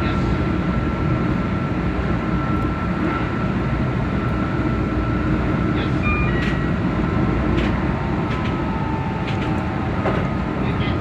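Keihan Electric Railway limited express train running along the track: a steady low rumble of wheels and running gear, with a faint steady high tone and a few scattered clicks.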